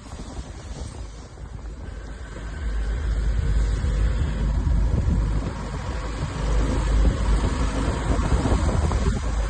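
Low rumble of motor traffic, heavy in the bass and growing louder about two and a half seconds in.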